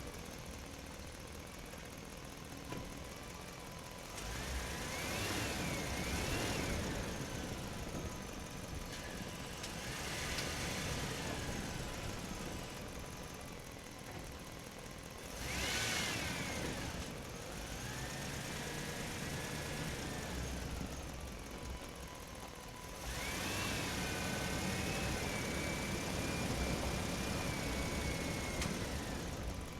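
Small electric motor of a toy truck whirring in about five spells, its whine rising and falling in pitch, over a steady low hum.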